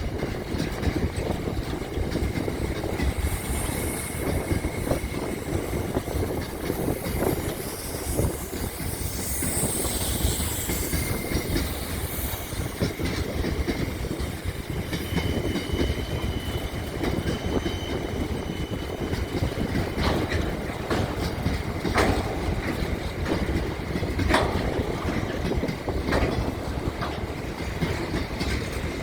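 A train running on the rails with a steady rumble. A few sharp clicks come from the wheels past the middle, and a faint high squeal briefly sits above the rumble.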